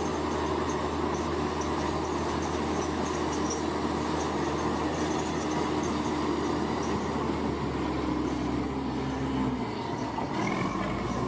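Bulldozer's diesel engine running steadily under load. About ten seconds in the pitch shifts and a higher squeal rises.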